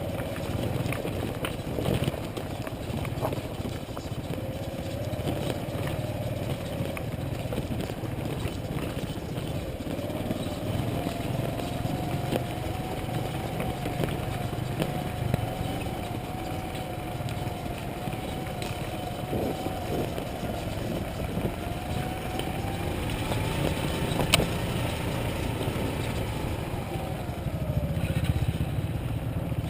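Motorcycle engine running steadily while riding, with a constant low rumble; its tone climbs near the end and then falls away as the revs drop. A single sharp click sounds late on.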